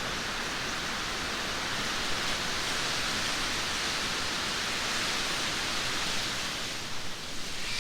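Steady heavy rain: an even hiss, swelling slightly in the middle and easing a little near the end.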